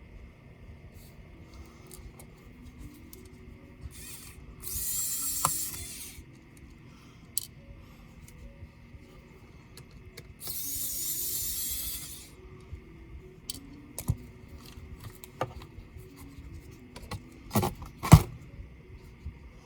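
Small hand-tool work on a laptop's parts: scattered clicks and taps of plastic and small metal parts, with two sharper knocks near the end. Twice, about 5 s and 11 s in, a small electric screwdriver whirs for about one and a half seconds, its pitch wavering slightly.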